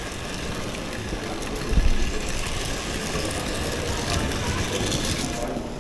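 Small battery-powered toy train running along its track, with a steady whirring hiss that cuts off suddenly near the end. One heavy knock about two seconds in, and voices in the background.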